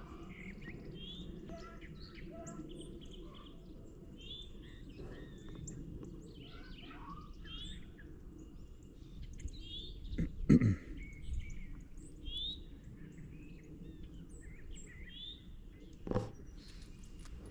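Small birds chirping over a low, steady outdoor rumble, with a loud dull thump about ten seconds in and a smaller one near the end.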